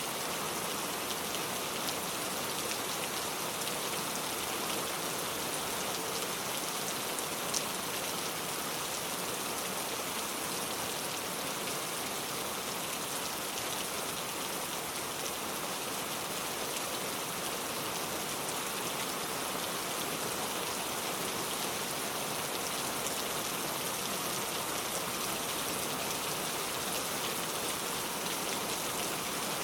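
Steady rain falling, an even, unbroken hiss of drops, with one brief sharp tick about seven and a half seconds in.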